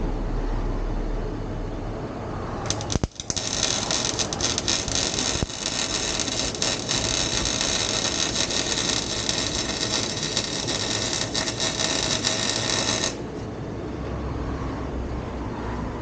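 Welder laying a bead on exhaust pipe: a steady crackling sizzle that starts about three seconds in and cuts off about ten seconds later. Wind rumbles on the microphone before and after.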